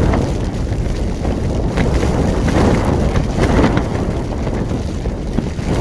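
Strong gusting wind buffeting the microphone: a loud, rumbling noise that swells and eases.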